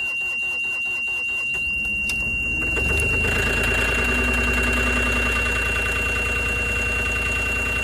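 Moffett M8 NX forklift's diesel engine being cranked in the cold, about five strokes a second, catching between two and three seconds in and settling into a steady idle. It starts promptly after the intake grid heater has preheated it. A steady high-pitched tone runs underneath.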